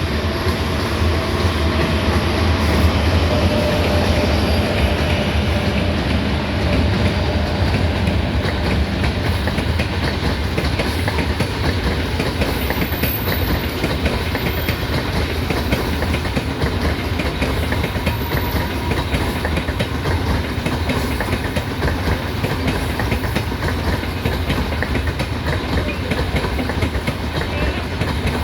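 Freight train hauled by a 3ES5K Ermak electric locomotive rolling past, its wheels clattering steadily over the rail joints in a dense, continuous rattle.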